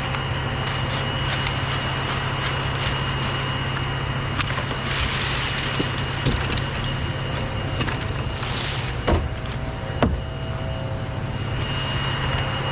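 An engine running steadily at an even speed, with two sharp knocks about nine and ten seconds in.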